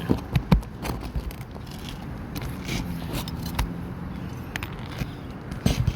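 Irregular clicks, taps and scrapes of hand tools working stuck nails out of an old, worn asphalt 3-tab shingle on a roof, with a faint low hum in the middle.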